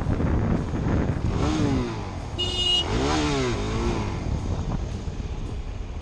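Motorcycle riding noise: the engine running with road and wind noise on the rider's microphone. A short, high, steady beep comes about two and a half seconds in, with wavering pitched sounds around it.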